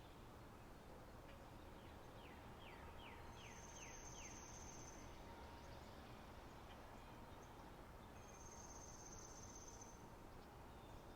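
Faint spring-meadow nature ambience. A bird gives a quick run of falling notes about two seconds in, and a high, steady insect trill sounds twice, each time for about a second and a half.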